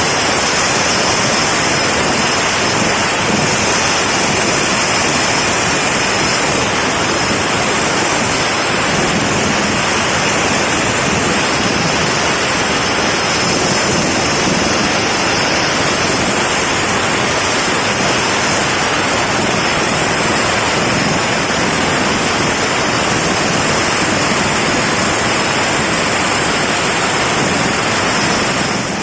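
Loud, steady rushing noise of a helicopter running close by, its rotor wash blowing over the microphone, with a faint high turbine whine.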